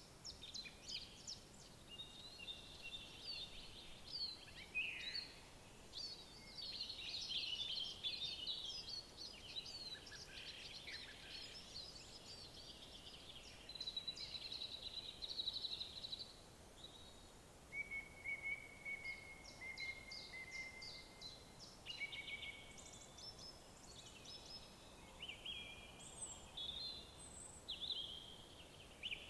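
Several songbirds singing over one another in a dawn-chorus-like mix of rapid trills and whistled phrases, with no pause, over a faint steady background hiss.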